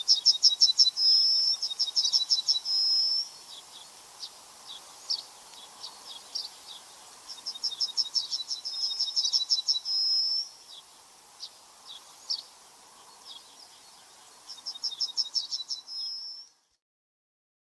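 A songbird singing: three phrases, each a fast run of high notes ending in a short held whistle, with single high chips between them. The sound cuts off suddenly near the end.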